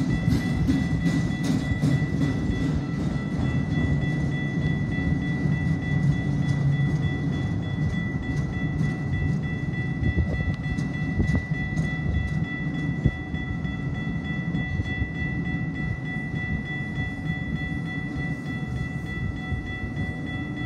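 Autorack freight cars rolling slowly past: a steady low rumble of wheels on rail with scattered clicks and clanks, and a steady high-pitched tone running over it.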